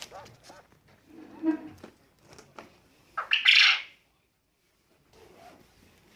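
A pet bird calling. Short calls come first, then a loud, harsh call lasting under a second, about three seconds in.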